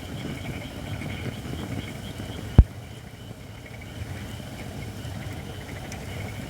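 Japanese white oak firewood, not yet fully seasoned, burning in an open fire pan with a steady low rumble and crackle. A single sharp, loud thump comes about two and a half seconds in.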